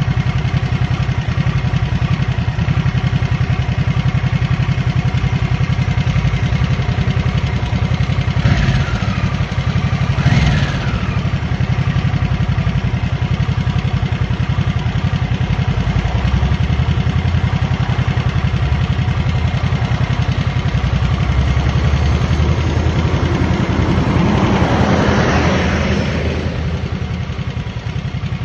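Harley-Davidson Nightster V-twin engine running under way while cruising, a steady low rumble. Twice, about a third of the way in, there is a brief swing in pitch, and near the end a rush of noise swells and then the engine eases off.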